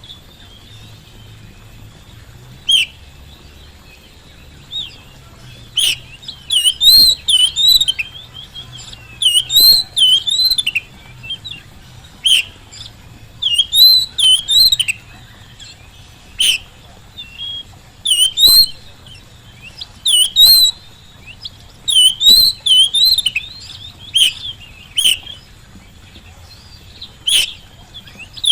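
Oriental magpie-robin (kacer) singing hard, in bursts of quick varied whistles and chirps with short pauses between the phrases.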